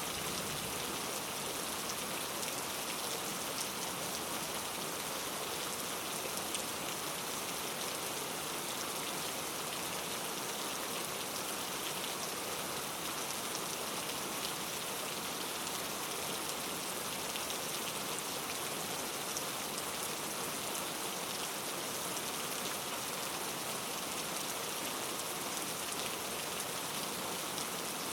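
Steady rain falling on a surface, an even hiss with scattered tiny drop ticks.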